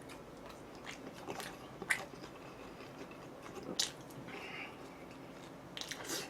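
Close-miked eating: a few sharp, crisp bites with chewing between them, the loudest bite about two seconds in and a quick run of bites near the end.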